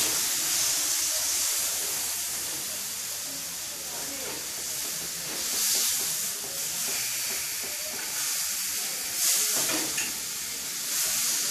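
Food frying in a pan, sizzling steadily, with the sizzle swelling louder a few times.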